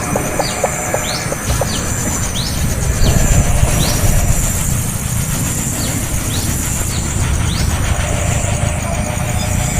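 Small birds chirping in short downward-sweeping notes, several a second at first and thinning out after about four seconds. Behind them are a steady high-pitched drone and a low rumble.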